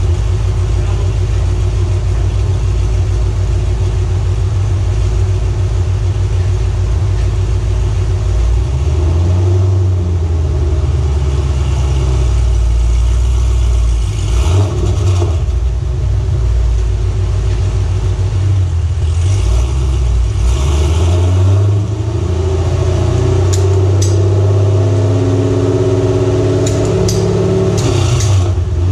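2005 Pontiac GTO's LS2 V8, breathing through long-tube headers and an SLP exhaust, running on a chassis dyno, its note changing pitch several times. A few sharp clicks come near the end.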